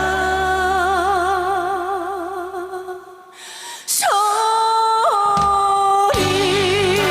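A female singer performs a Korean trot ballad with accompaniment, holding a long note with vibrato. About three seconds in the music falls away; she starts a new note alone about a second later, and the accompaniment comes back in about six seconds in under another wavering held note.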